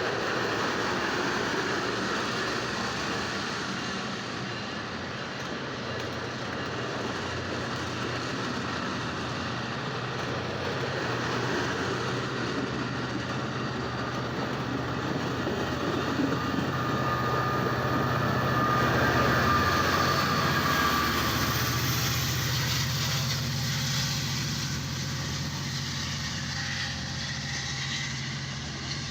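Amtrak California passenger train rolling past as it departs, with a continuous rumble of wheels on rail and a steady low engine hum. It grows louder about two-thirds of the way through, as the pushing diesel locomotive goes by, then eases off.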